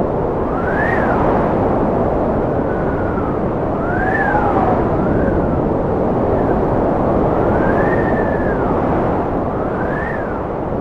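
Strong wind blowing steadily, a dense rushing with howling whistles that rise and fall in pitch, one every one to two seconds.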